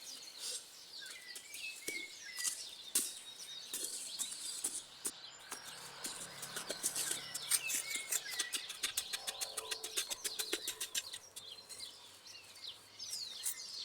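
Small birds chirping and calling. A few short knocks come early, and from about six seconds in there is a rapid run of short clicks lasting about five seconds.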